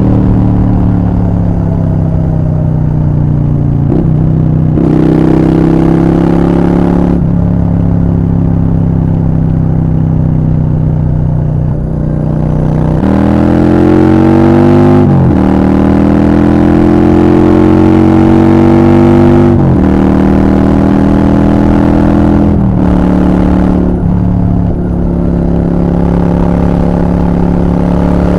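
Honda Shadow 750 V-twin with a Black Widow aftermarket exhaust, ridden under way. The engine note rises and falls in steps several times as the bike is revved and shifted through the gears, with a sharp climb about halfway through.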